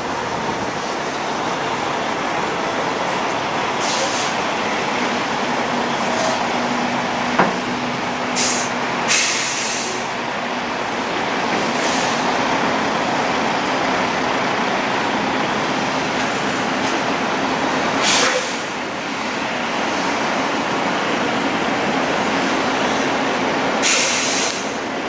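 Heavy trucks running with a steady engine and road noise, broken a few times by short hisses of air, typical of truck air brakes.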